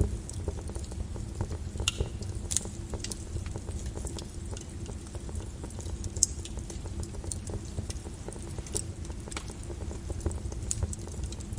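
Lava crackling and popping, with irregular sharp cracks, the loudest about six seconds in, over a steady low rumble.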